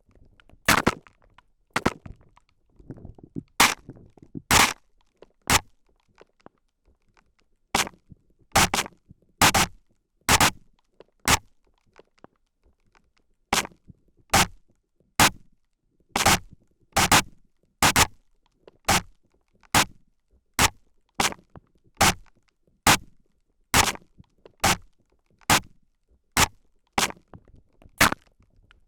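Spray bottle spritzed close to the ears in short hissing bursts, irregular at first, then about one a second from about halfway through.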